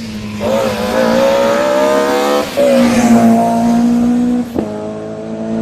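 Rally car engine accelerating hard: the revs climb, drop sharply with a gear change about two and a half seconds in, climb and hold again, then break once more with another sharp shift a little before the end.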